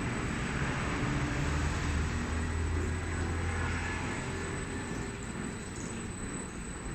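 UniMac 130-pound industrial washer-extractor running: a steady machine hum with a low drone that grows stronger about a second in and eases off a little toward the end.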